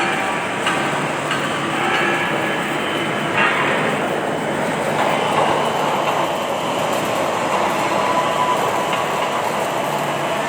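Steady, loud factory noise of an automatic welding machine running: an even hiss and rumble with a low hum and a few faint clicks.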